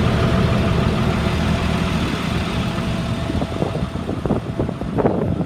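School bus engine idling steadily. From about halfway through, irregular knocks and rustles are heard over it.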